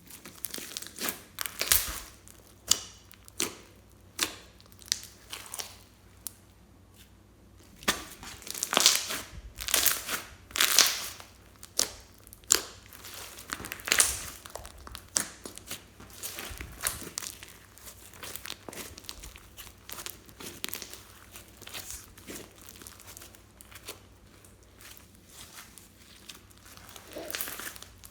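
Slime being squished and pressed by hand: irregular crackling and popping, busiest and loudest about a third of the way in, then sparser.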